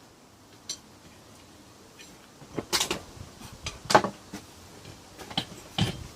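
Irregular knocks and clinks of hard objects being handled, a few scattered at first and then a quick cluster, with the loudest sharp knock about four seconds in.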